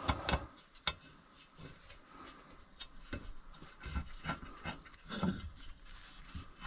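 Irregular light clicks, knocks and scraping of hand work with a bolt and tools on a truck, with the sharpest knocks in the first second.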